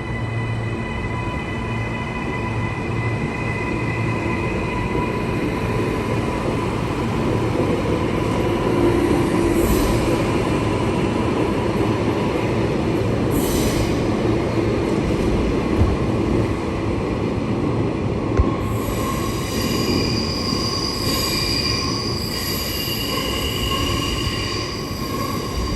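Queensland Rail electric suburban train moving through a station platform, a steady rumble with a motor whine. There are two short high hisses about ten and thirteen seconds in, and high-pitched wheel squeal sets in over the last several seconds.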